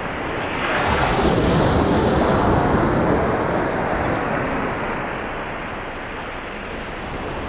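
Sea waves breaking and washing up a beach: a surge of surf swells up about a second in, then slowly fades away.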